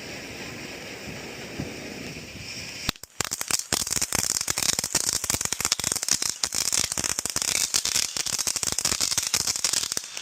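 A consumer firework going off about three seconds in as a dense, rapid crackle of many small pops, lasting about seven seconds and stopping abruptly near the end.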